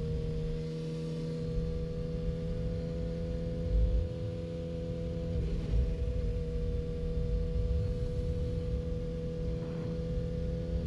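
Yamaha R6's 600 cc inline-four engine holding steady revs while cruising, a steady drone with a brief dip in pitch about halfway through, with wind rumble on the microphone.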